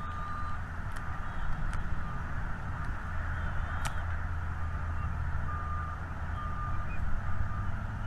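Vehicle reversing alarm beeping in short, evenly spaced beeps at one steady pitch, over a steady low engine rumble. A few faint bird chirps come through now and then.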